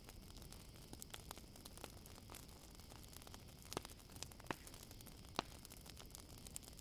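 Campfire crackling: irregular small pops, with three louder ones in the second half, over a steady high-pitched trill of crickets.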